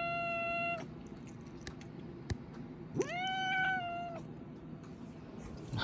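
Domestic cat giving long, drawn-out meows: one call ends within the first second, and a second starts about three seconds in, rising at its start and then holding steady for about a second. A few faint clicks sound between the calls.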